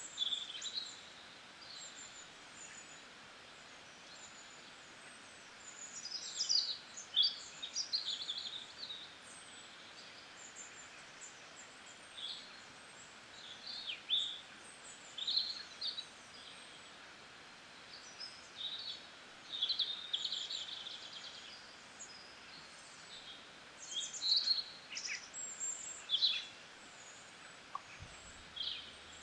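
Birds calling in short, high chirps at irregular intervals over a steady faint hiss, with a low hum coming in near the end.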